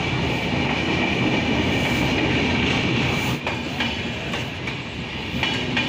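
Intercity express passenger train arriving at the platform, its coaches rolling past with a steady rumble. In the second half, a few sharp clacks come as wheels cross rail joints.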